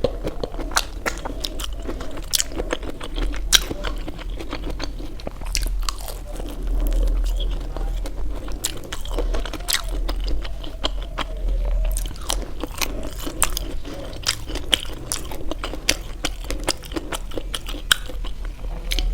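Close-miked chewing of steamed vegetable momo dumplings, with frequent wet mouth clicks and lip smacks, over a steady low hum.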